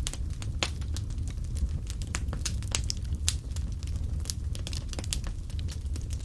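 Wood fire crackling: irregular sharp pops and snaps, several a second, over a low steady rumble of burning.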